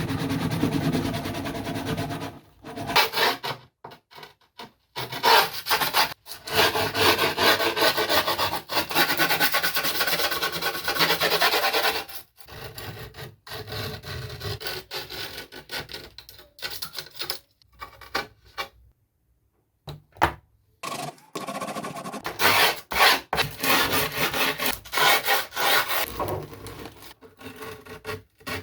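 Rasping and rubbing on a wooden skateboard deck, in bursts broken by several brief silent gaps.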